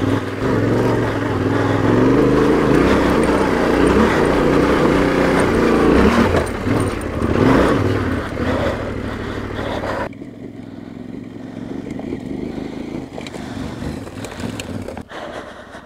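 Trail motorcycle engine running with shifting pitch, briefly rising and falling, mixed with wind noise. About ten seconds in the sound drops abruptly to a much quieter low rumble.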